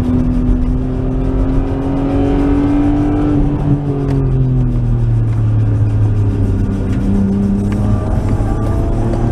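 Nissan Skyline R33's RB20E 2.0-litre SOHC inline-six engine under track driving, heard from inside the cabin. The engine note holds high, drops in pitch about four seconds in as the revs fall, then rises again near the end.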